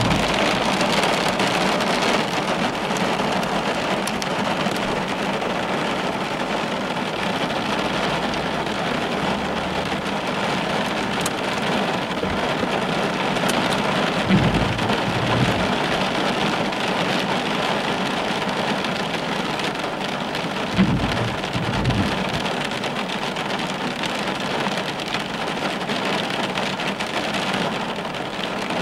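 Heavy rain hitting a car's windshield and roof, heard from inside the car as a steady dense patter. Brief low thunder rumbles come about 14 seconds in and again about 21 seconds in.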